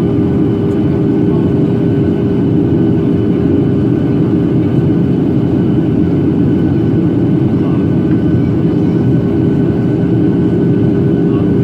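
Cabin noise of a Boeing 737-800 in flight: a steady roar of engine and airflow with a constant droning tone from the CFM56-7B engines, heard from a window seat inside the cabin.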